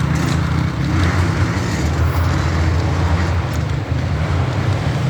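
Dirt bike engines running through a creek crossing, a loud, steady low drone.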